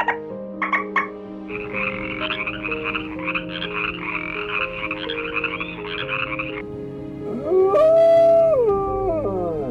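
A chorus of frogs croaking rapidly for several seconds over background music. Near the end a single loud canine howl rises, holds steady and then falls away.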